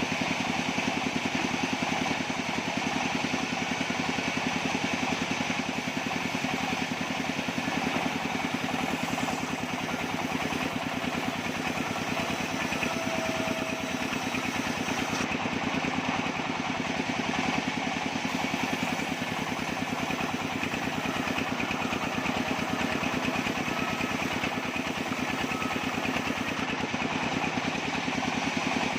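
Engine-driven bandsaw sawmill running steadily, its motor holding an even, unchanging note.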